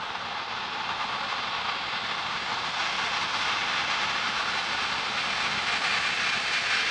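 Jet airliner engines, a steady rushing roar that grows gradually louder as the aircraft nears, with a faint high whine joining about halfway through.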